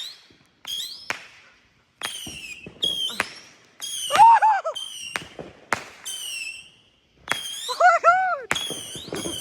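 A 25-shot firework cake firing in rapid succession, about one shot a second or faster. Most shots are followed by a falling whistle, and a few louder whistles rise and fall.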